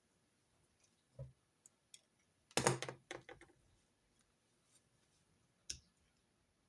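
Pens and stationery handled on a desk: a tap about a second in, a quick cluster of clicks and knocks near the middle, which is the loudest part, and one sharp click near the end.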